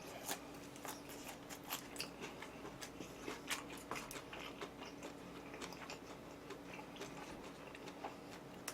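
A person chewing food close to the microphone: soft, irregular wet mouth clicks and small crunches, with a faint steady hum underneath.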